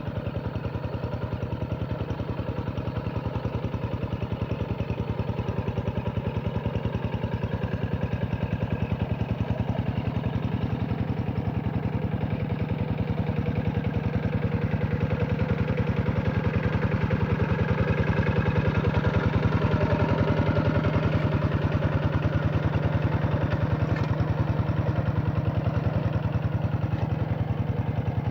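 Hand tractor's diesel engine running steadily with a fast, even chug, a little louder midway.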